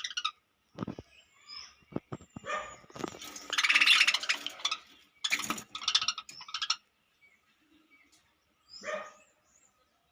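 Budgies in a breeding loft, chirping and chattering in short high calls, with a loud harsh burst of noise from about three to four and a half seconds in and scattered clicks.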